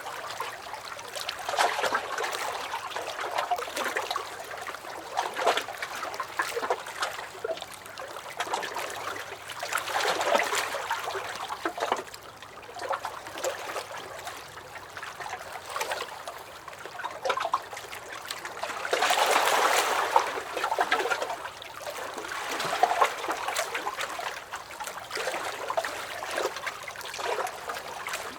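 Small lake waves lapping and sloshing against a dock, an irregular wash of small splashes that swells and eases every few seconds, loudest about two-thirds of the way in.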